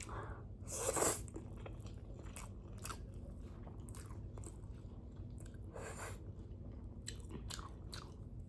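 Close-miked eating sounds of spicy Buldak ramen noodles: chewing with small wet mouth clicks throughout. Two louder, longer noisy sounds stand out, about a second in and near six seconds in.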